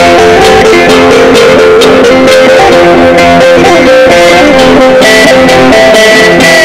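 A sape, the Dayak boat-shaped lute of Borneo, being plucked: a running melody of repeated ringing notes over a sustained drone.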